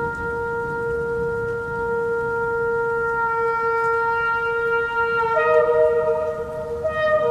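Shofar (ram's horn) sounding one long, held blast that steps up to a higher note about five seconds in.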